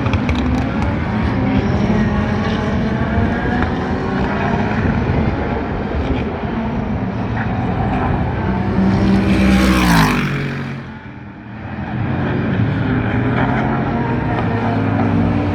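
Super GT race cars running at speed past the trackside, several engines audible at once. About ten seconds in one car passes very close, its engine pitch dropping sharply as it goes by, then the sound dips briefly before more cars build up again.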